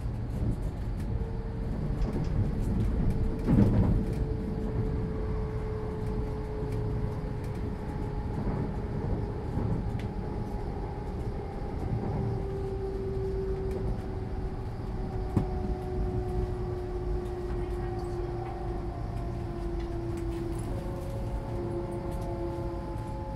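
Interior running noise in the motor carriage of a Hitachi Class 805 bi-mode train under diesel power: a steady low rumble with a whine from the traction equipment that falls slowly in pitch as the train slows. A sharp thump comes about four seconds in, and a higher pair of whine tones starts near the end.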